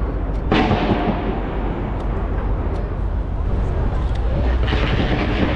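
Skyscraper New Year's fireworks going off continuously, a dense mix of bursts and crackling with a sharp bang about half a second in and a brighter spell of crackling near the end. Crowd voices underneath.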